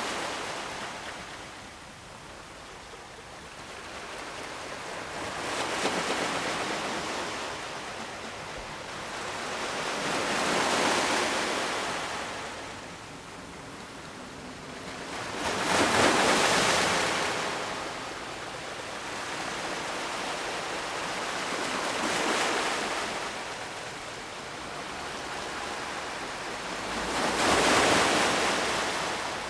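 Ocean surf: waves breaking and washing up the shore, a swell of rushing water about every five to six seconds, the loudest about halfway through and near the end.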